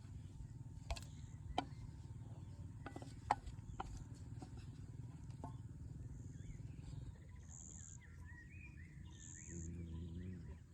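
Outdoor ambience: a steady low rumble with a few sharp clicks, and bird-like chirping in the last few seconds.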